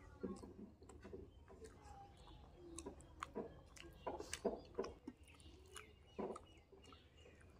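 A person chewing food with wet mouth smacks and short clicks, eating dal and roti by hand from a steel plate, the clicks coming irregularly throughout.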